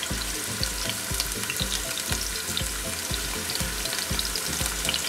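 Scallops searing in a hot pan, a steady sizzle dotted with small crackling pops.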